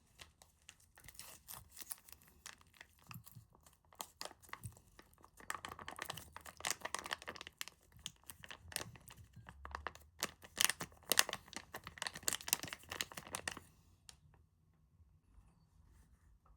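Crinkling and rustling of something being handled, with many sharp crackles, busiest in the middle and stopping suddenly near the end.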